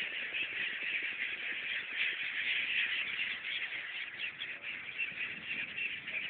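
A flock of migratory birds calling together over a river, a dense unbroken chatter of many overlapping calls.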